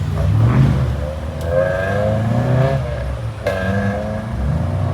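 Car engine revving, its pitch climbing and falling, over the steady running of other engines. A single sharp pop cracks out about three and a half seconds in.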